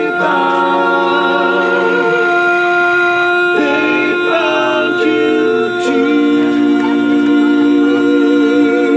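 Voices singing a cappella in harmony, holding long sustained notes with vibrato. Near the end they settle on one long held note.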